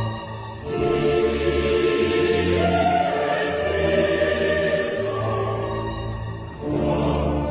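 Choral music: a choir singing long held chords, the harmony changing about a second in and again near the end.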